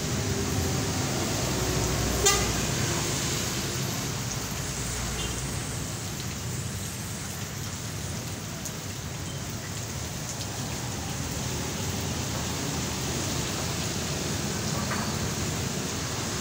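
Heavy rain and road traffic making a steady hiss of rain and wet tyres, with a brief sharp sound about two seconds in.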